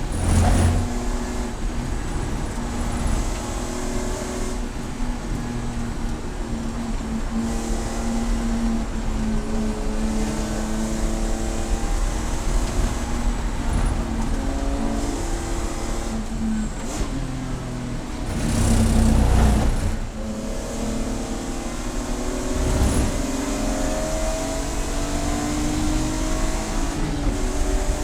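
Race car engine running at speed, its pitch climbing slowly and dropping back again and again as it works through the gears. There are two louder low rumbles, one about half a second in and one around nineteen seconds in.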